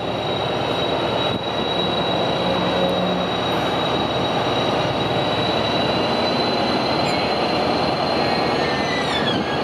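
Passenger train led by a Siemens SC44 Charger diesel locomotive rolling past: a steady rumble of engine and wheels with a thin, high squeal that holds steady, then drops in pitch near the end.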